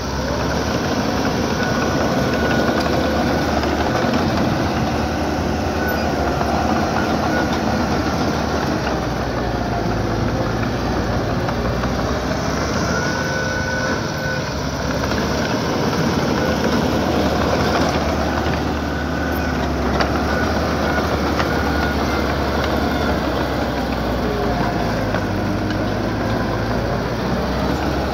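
Small bulldozer at work pushing rock: its diesel engine runs steadily under load, with short high squeals every few seconds.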